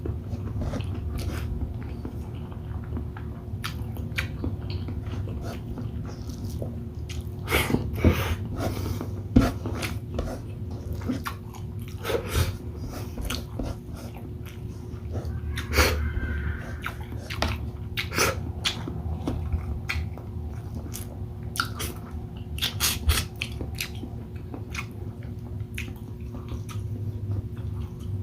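Close-up mouth sounds of a person eating shrimp in coconut milk with rice: wet chewing, lip smacks and occasional sharp clicks of utensils or shell, irregular and unhurried, over a low steady hum.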